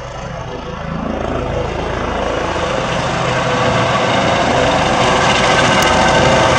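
Air ambulance helicopter running close by, its rotor and turbine noise growing steadily louder.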